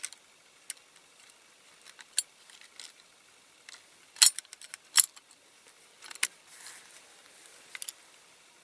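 Small metal clicks and taps of a diecast toy car's baseplate being handled and fitted onto the body, with two sharper clicks about four and five seconds in.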